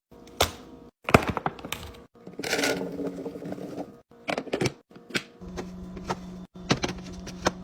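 Restocking sounds: quick clicks, clacks and knocks of packaged items and plastic containers being handled and set down, broken by abrupt cuts. There is a stretch of rustling a little after two seconds, and a steady low hum comes in about halfway through.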